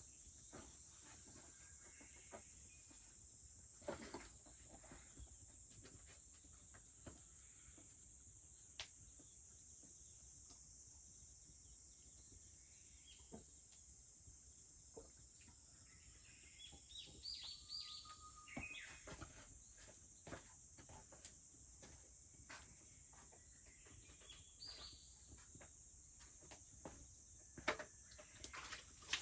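Faint steady high-pitched drone of cicadas, with sharp pops and crackles from a wood fire scattered throughout. Short bird chirps come in twice, around the middle and again later.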